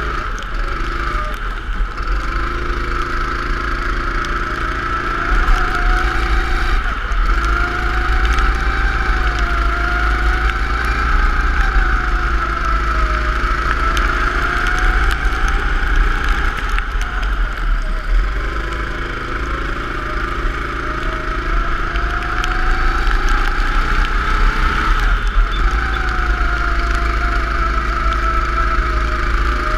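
Go-kart engine running at speed, its pitch rising and falling as it accelerates and backs off through a lap, with short dips in pitch three times, over a steady heavy low rumble.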